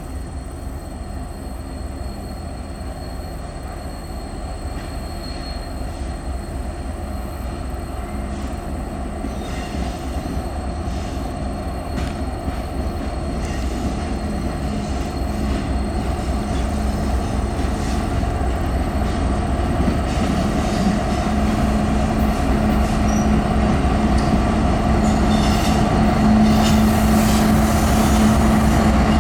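Diesel-hauled CPKC freight train approaching, its locomotives and rolling cars rumbling and growing steadily louder. A steady low hum comes up more strongly in the second half as the lead locomotives draw near.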